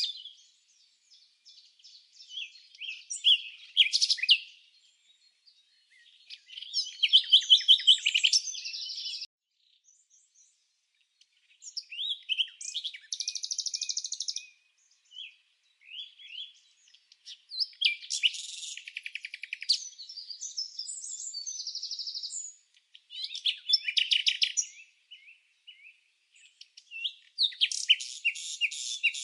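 Songbird chirping and trilling in short bursts of rapid, high notes, with brief pauses between phrases.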